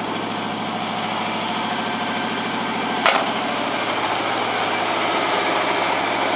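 1986 Ford F-150's engine idling steadily while it warms up, less than a minute after a cold start in about six-degree weather. A single sharp click about three seconds in.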